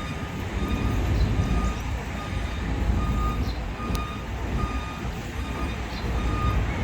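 Backup alarm of heavy construction machinery beeping steadily, a short tone a little under once a second, over a low engine rumble.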